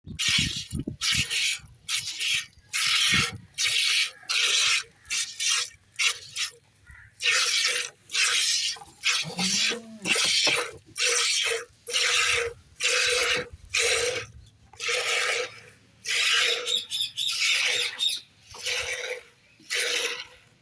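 A goat being milked by hand: jets of milk squirting into a pail in regular strokes, about one a second.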